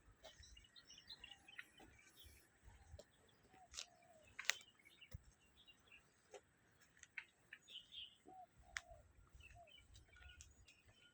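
Near silence, broken by a few faint scattered clicks and several faint short chirps.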